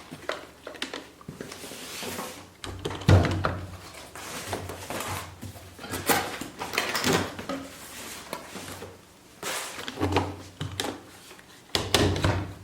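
Plastic parts and packaging being handled and set down: irregular knocks, scrapes and rustles, with a few heavier dull thumps.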